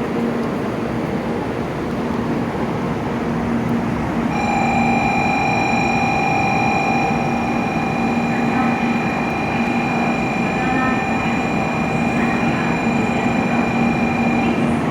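Steady low hum of an N700A Shinkansen train standing at the platform. About four seconds in, the platform's electronic departure signal starts: one continuous steady tone that holds for about ten seconds and cuts off just before the end, signalling that the train is about to leave.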